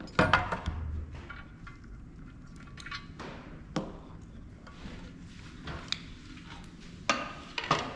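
A tiny Allen key working at a small hex screw inside a thermal printer: a handful of light, scattered metallic clicks and taps, with a brief rustle about three seconds in.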